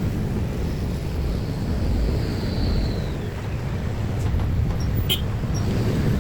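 Steady low rumble of passing road traffic at a railway level crossing, with a faint falling whistle about a second in and a short sharp click near the end.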